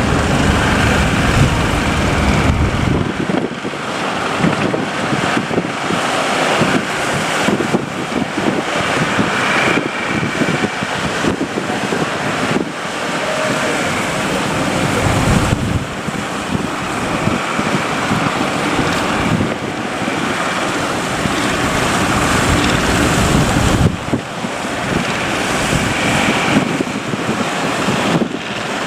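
Wind buffeting the microphone over the rush of breaking sea surf, a loud, continuous noise that swells and eases.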